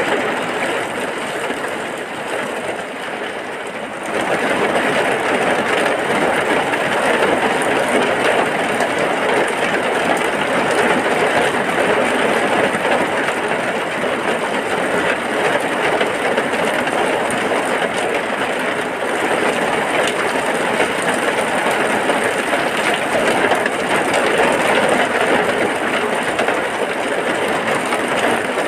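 Heavy rain falling steadily, becoming louder about four seconds in.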